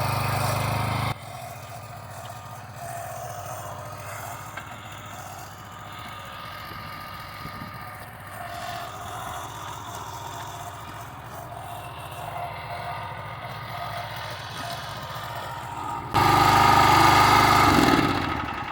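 Tractor engine running steadily. It is loud for about the first second, drops abruptly to a quieter steady run, then is loud again for about two seconds near the end before fading out.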